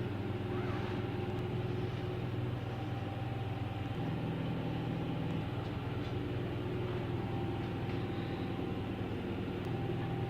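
Steady low mechanical drone with a constant hum and a faint steady whine above it, as from an engine, generator or air conditioner running.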